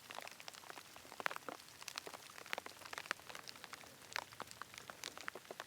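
Rain falling, with many irregular drops pattering sharply close by.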